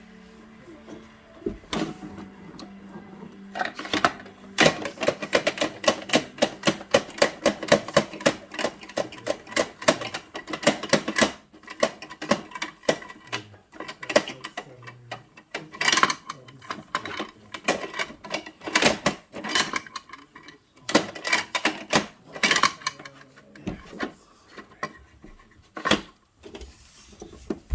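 Plastic toy garbage truck being worked by hand: rapid runs of hard plastic clicking and rattling, densest for several seconds early on and then in shorter bursts.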